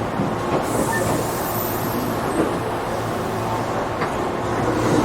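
Tobu 8000-series electric train standing at the terminal platform with a steady hum from its onboard equipment under a constant noise. A high hiss, typical of air being released, starts under a second in and fades away a few seconds later.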